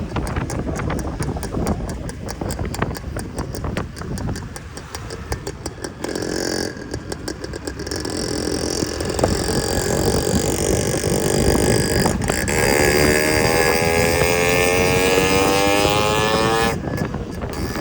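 Yamaha RX100's two-stroke single-cylinder engine running with a rapid, crackling exhaust beat. From about two-thirds of the way in it revs up, its pitch climbing steadily, then drops away shortly before the end.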